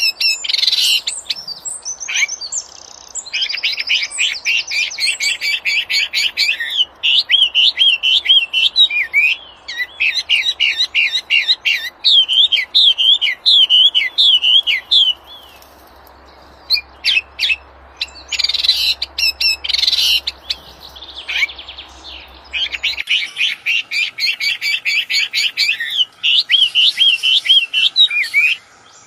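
A wambi bird singing busily in fast strings of sharp repeated notes and looping warbled phrases, with a pause of a couple of seconds about halfway through.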